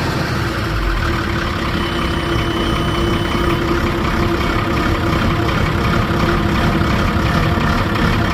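Sabre Marine 5.9-litre turbo diesel of an MKII bridge erection boat running at a steady idle, just started after sitting unused for about six months.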